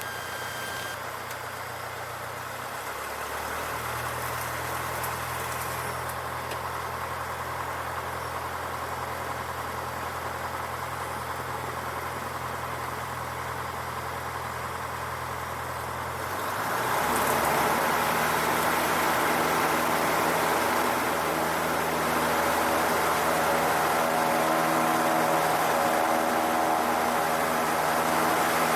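Cessna 152's four-cylinder Lycoming engine running at low power. About sixteen seconds in it rises in pitch and grows louder, then holds steady: the throttle going to full power for the takeoff roll.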